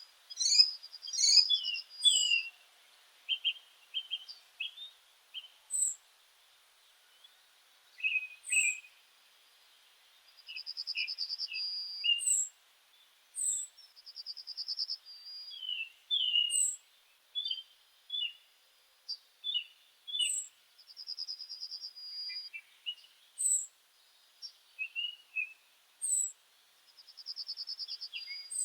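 Songbirds singing: a rapid, high trill of about a second and a half repeats every few seconds, among short chirps and whistled notes.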